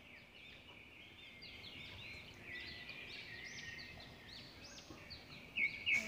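Birds calling outdoors: many short, arching chirps overlapping one another, over a steady high-pitched drone, with louder calls near the end.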